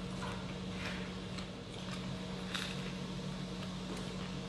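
Close-up eating sounds: a person biting and chewing a pickle spear and a pan-toasted chicken shawarma wrap, with a few short crisp clicks from the bites over a steady low hum.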